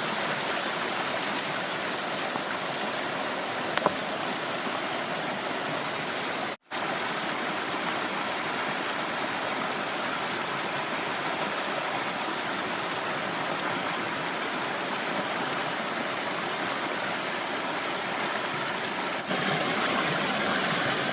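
Stream water flowing steadily, an even rush. It cuts out for a moment about six and a half seconds in, and comes back a little louder near the end.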